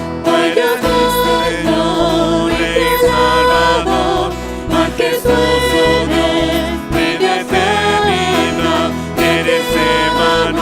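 Live church worship music: a band plays a Spanish praise song with steady bass and sustained chords, and voices sing along.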